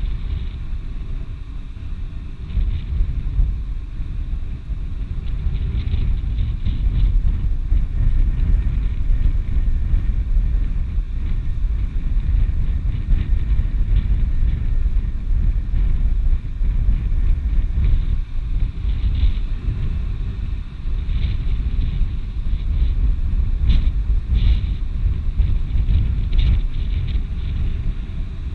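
Wind buffeting the microphone: a steady, loud low rumble with gusty swells.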